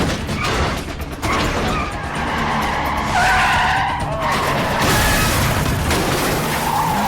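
Movie car-chase sound mix: car engines running and tyres skidding, with a music score underneath. A burst of tyre squeal comes about halfway through.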